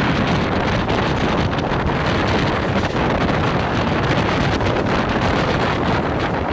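Wind buffeting the microphone over the steady running noise of a Mumbai suburban electric local train, its wheels rumbling on the track.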